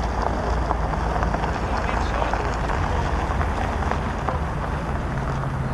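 Steady outdoor rumble and noise with faint voices in it; a low steady hum comes in near the end.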